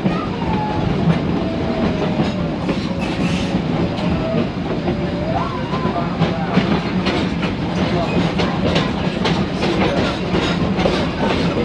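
A steam-hauled train rolling along, heard from an open car: a steady rumble with the rattle and clickety-clack of wheels over the rail joints.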